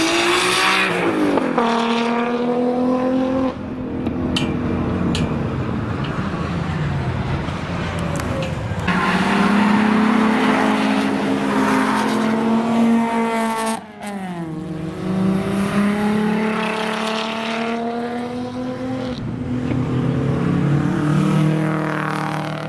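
Single-turbo Nissan R33 GT-R's RB26 straight-six running hard, with an external wastegate screamer pipe. Its pitch climbs and falls several times as it is revved and driven, with a brief sudden drop near the middle.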